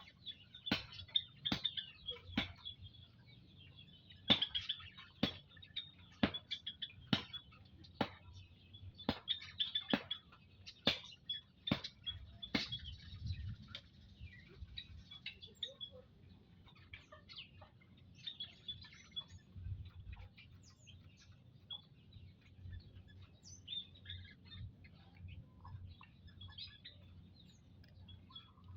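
Small birds, olive-backed tailorbirds, chirping with thin high calls, over a quick run of sharp clicks about one or two a second in the first half; the calls continue more sparsely after that.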